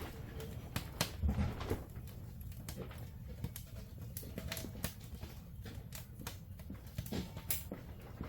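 Wood fire crackling: irregular sharp snaps and pops over a low, steady rumble.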